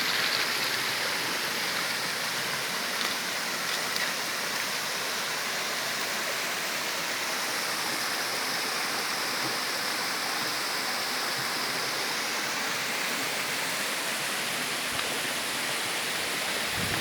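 Flowing river water rushing steadily, an even hiss that holds without a break.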